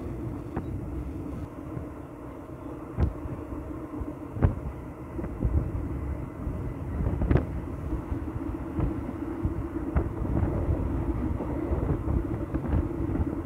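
Train running along the track, heard from aboard a carriage: a steady rumble with sharp knocks from the wheels over the rails every few seconds.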